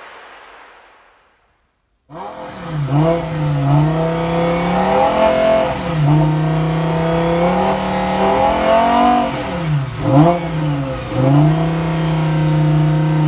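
A soft hiss fades out. About two seconds in, a Lamborghini Huracán Performante's 5.2-litre V10 starts revving: it climbs and holds high revs for a few seconds at a time, drops between holds, and gives two quick blips near the ten-second mark.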